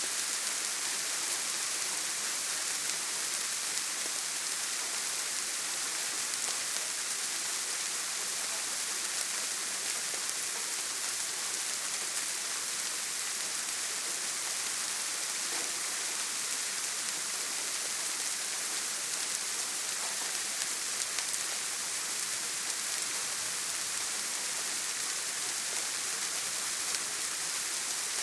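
Heavy rain falling steadily on a tin roof, a dense even hiss made of countless small drop patters, with no breaks.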